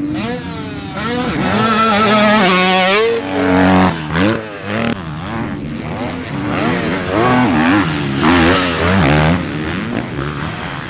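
Motocross dirt bike engine revving hard on the track, its pitch climbing and dropping again and again as the throttle is worked through the gears.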